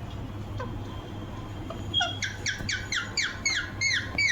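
Rose-ringed (Indian ringneck) parakeet calling: starting about halfway in, a fast run of short, falling screeches, about four a second.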